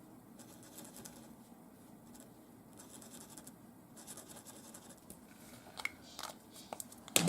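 Faint scratching and rubbing as colour is worked onto a paper print by hand, with a few light clicks near the end.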